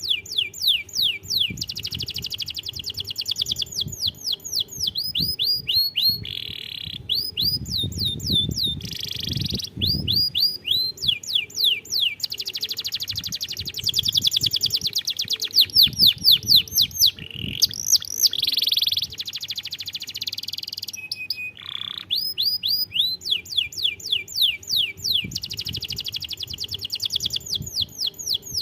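Domestic canary singing a long, fast song: runs of rapidly repeated falling whistled notes alternating with trills, switching to a new phrase every second or two.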